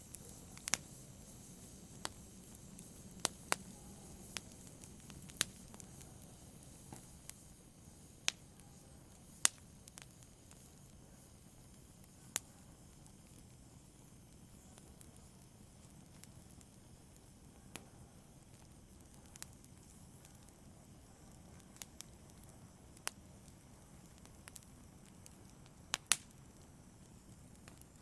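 Wood fire burning in a fireplace: a soft steady hiss with sharp, irregular crackles and pops, a pair of louder pops near the end.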